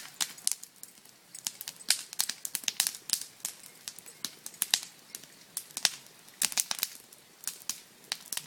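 Wood bonfire crackling, with many sharp, irregular pops and snaps.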